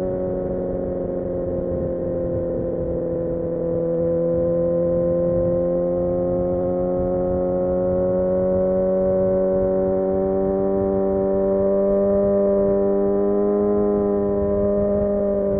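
Kawasaki Ninja ZX-6R's inline-four engine running at a steady cruise, its pitch sagging slightly at first and then slowly climbing as the throttle is held.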